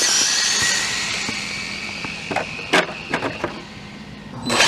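High electric whine of an RC drag car's 13.5-turn brushless motor speeding past, dropping in pitch as it goes by and fading over several seconds, with a sharp click about three seconds in. A second burst of whine starts near the end and cuts off suddenly.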